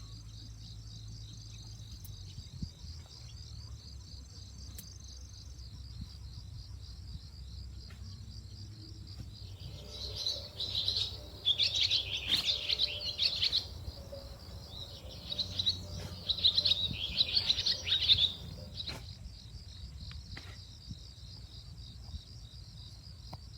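An insect chirring steadily in a fast, even pulse while a songbird sings two bouts of rapid, twittering song of about three seconds each, the first starting about ten seconds in and the second a few seconds later.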